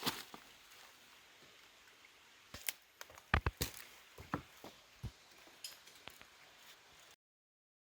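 A series of sharp clicks and knocks, bunched together near the middle, over a faint steady hiss; the sound cuts off completely about seven seconds in.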